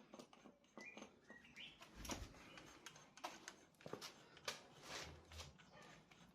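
Faint scattered clicks and knocks, with two short bird chirps about a second in.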